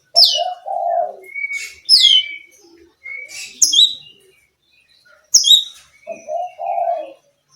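Oriental magpie-robin singing: about four loud, sharp whistled phrases, each sweeping down in pitch, with shorter lower notes between them. Two runs of low cooing notes sound underneath, once near the start and once near the end.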